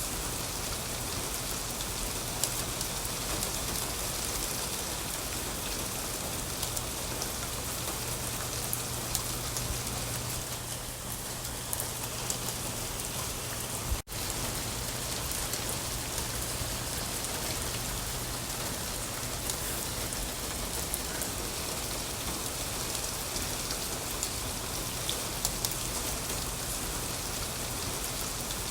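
Steady rain falling, an even hiss with individual drops ticking sharply through it. The sound cuts out for a split second about halfway through, then resumes unchanged.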